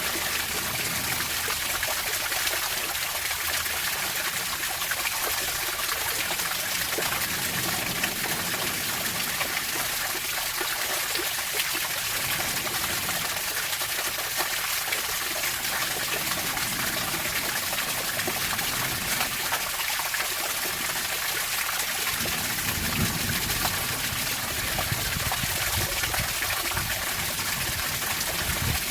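Running water trickling and splashing in a steady, even rush, most of it in the higher pitches. A low rumble comes and goes near the end.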